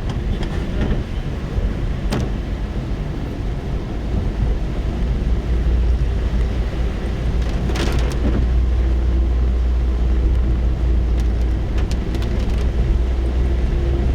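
Rain on a car heard from inside the cabin, over a steady low rumble of the car, with scattered sharp taps.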